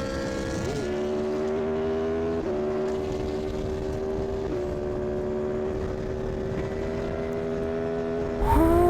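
Aprilia superbike's engine running at high revs at speed, a steady high note whose pitch steps down slightly twice, about 2.5 and 4.5 seconds in.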